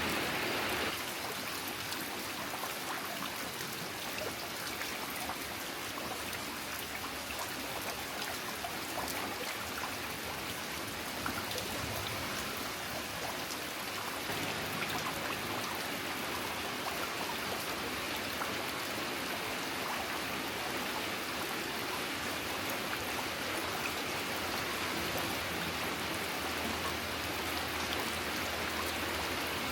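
Steady rain falling: an even hiss with many small drop taps.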